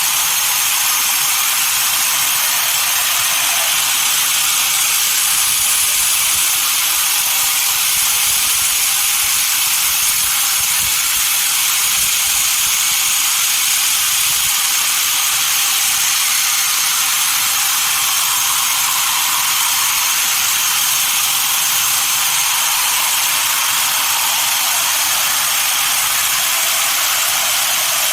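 Sawmill saw running, a steady high hiss with a faint thin whine over it, unchanging throughout.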